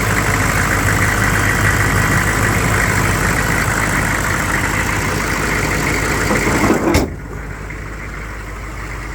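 6.5-litre Detroit turbo diesel V8 idling steadily. About seven seconds in there is a thump, after which the engine sounds quieter and duller.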